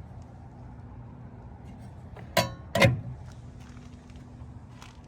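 Two sharp metallic clunks about half a second apart, a little over two seconds in; the first rings briefly.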